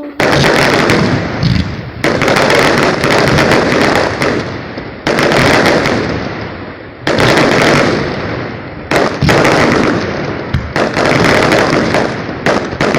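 Fireworks going off in quick succession: a loud bang every second or two, each trailing off in a long crackle.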